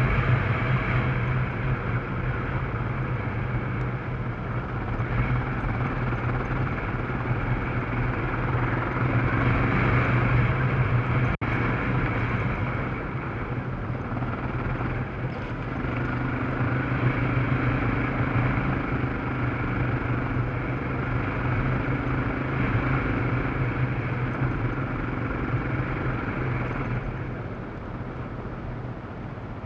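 Yamaha Serow trail motorcycle's single-cylinder four-stroke engine running steadily under way, mixed with wind and road noise. The sound cuts out for an instant about eleven seconds in and gets a little quieter near the end.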